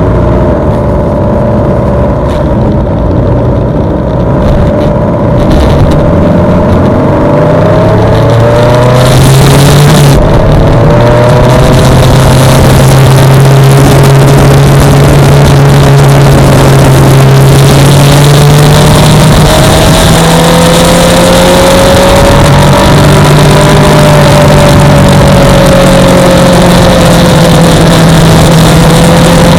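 Suzuki GSX-R600 inline-four sport bike engine running, rising in pitch about eight seconds in and then held at a fairly steady, slowly wavering pitch, with a loud even hiss over it.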